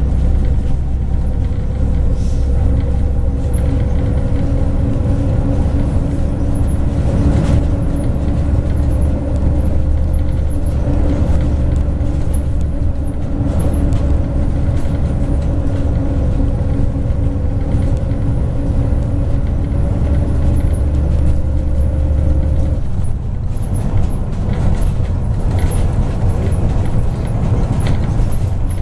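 MAZ 103 bus under way, heard from inside: a steady low engine drone with a faint slowly rising whine, which drops away abruptly about three quarters of the way through as the engine comes off load, over road noise and light ticking rattles from the body.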